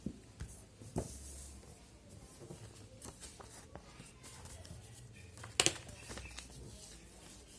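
Sheet of paper being handled and folded, with scattered soft rustles and taps and a sharper crackle of paper a little past halfway.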